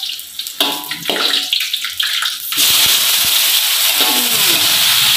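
Food sizzling in hot oil in a pan, starting suddenly about two and a half seconds in and going on as a loud, steady hiss.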